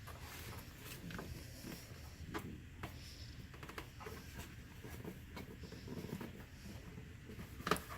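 Packaging being handled by hand: scattered rustles, scrapes and light taps, with one sharper click near the end.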